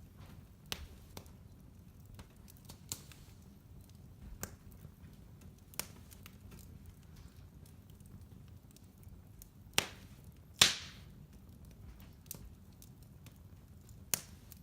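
Wood fire burning in a fireplace: a low steady hiss broken by sharp, scattered crackles and pops from the logs, the loudest two close together about ten seconds in and another just before the end.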